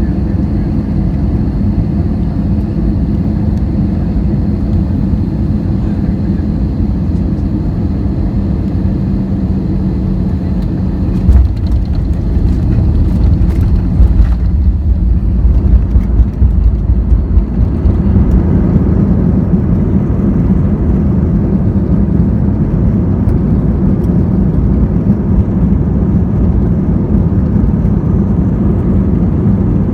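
Airliner landing: a steady engine and airflow drone with a faint high whine, then a sudden jolt about eleven seconds in as the wheels touch down. Louder, rougher rumbling with rattles follows for several seconds, then a steady rumble as the aircraft rolls out.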